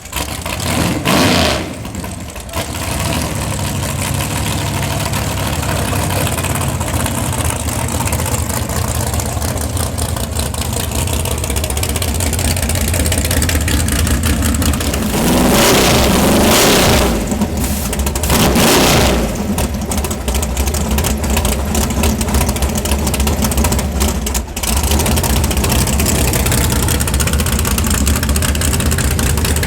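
Race car engine idling with a steady low drone, revved hard briefly about a second in and twice more in quick succession around the middle.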